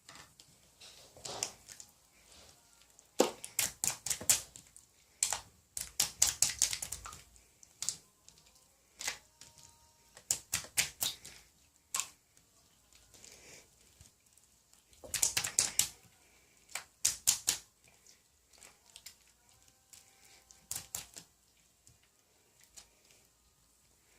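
Irregular runs of rapid, sharp clicks, several in quick succession, separated by quiet gaps; the densest runs come a few seconds in and again past the middle.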